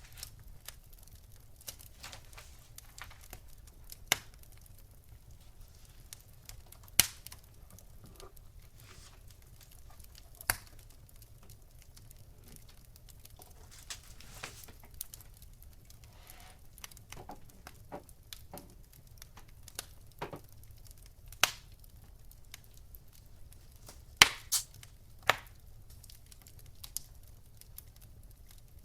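Fire crackling, with irregular small crackles and a few sharp, louder pops, over a faint steady low hum.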